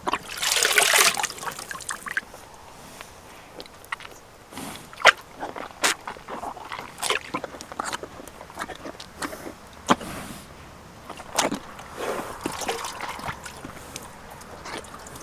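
A horse in wet ground: a long splashing burst near the start, then scattered sharp hoof knocks and sloshes at uneven intervals.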